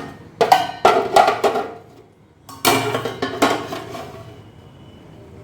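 Metal utensils and pots clattering and knocking against each other and the dishwasher rack as they are handled. There is a quick run of sharp knocks, a short pause, then a second cluster of knocks that rings out.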